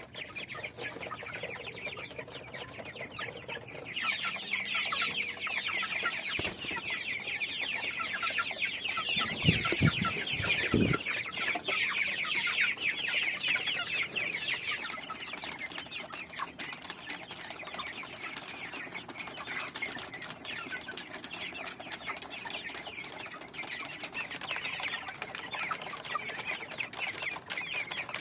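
A group of chickens clucking and chirping: many short, high calls that grow busier a few seconds in and then thin out. A few dull thumps come about ten seconds in.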